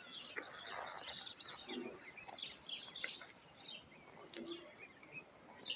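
Birds chirping: many short, high chirps, scattered and overlapping, fairly faint.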